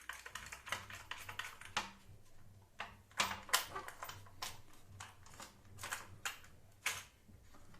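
Irregular clicks and light knocks of router table parts and hardware being handled and fitted together, the loudest a few seconds in and again near the end.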